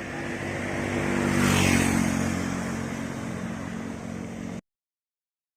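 A motor vehicle engine passing close by, growing louder to a peak about a second and a half in, then fading; the sound cuts off abruptly near the end.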